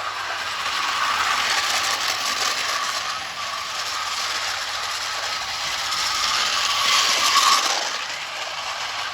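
Battery-powered Märklin my world toy train running on plastic track: a small motor and gearbox whirring with the wheels clattering. It grows louder near the end, as if passing close, then drops back.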